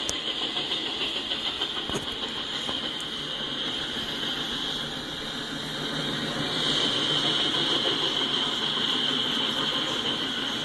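Double-stack intermodal freight train rolling past: a steady rumble of wheels on rail with a continuous high-pitched squeal, which grows louder about two-thirds of the way through.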